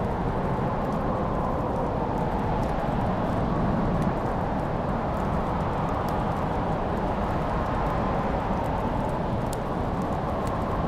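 Crackling wood fire: a steady low rush of noise with a few faint, sharp pops and crackles scattered through it.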